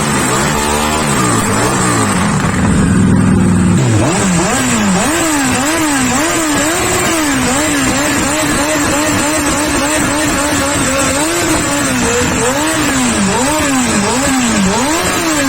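Motorcycle engine revved over and over, its pitch rising and falling in quick throttle blips about once a second, holding steadier for a few seconds midway, then dropping away at the end.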